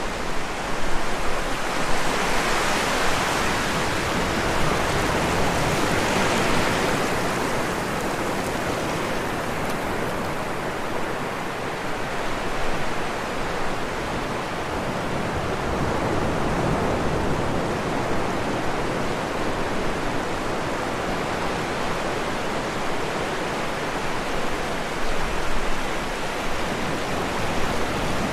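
Rushing floodwater: a steady, dense rush of water noise that swells for a few seconds early and then holds even.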